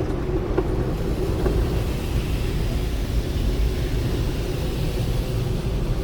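Automatic conveyor car wash running around the car, heard from inside the cabin: a steady low rumble of machinery and water.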